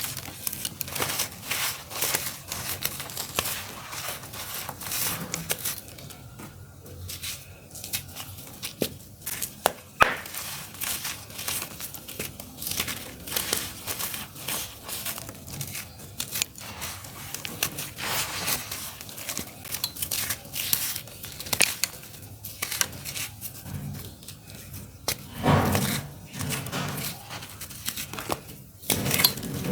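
Clumps of dry, earthy dirt crumbling and crunching, a dense run of sharp crackles and snaps, with a heavier, deeper crunch near the end.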